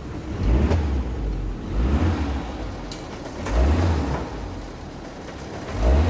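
1979 Toyota Corolla KE30's 1.2-litre engine idling and blipped four times on the throttle. It runs a lot quieter, with new conrod bearings fitted to cure a bad bearing noise.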